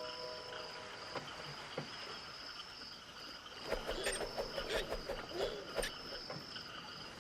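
Crickets chirping steadily as a night-time ambience, a continuous high pulsing trill. Faint wavering sounds come in about halfway through.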